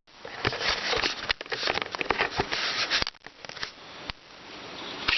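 Knife cutting up rose hips and bergamot leaves: a dense run of small clicks and rustles for about three seconds, then quieter.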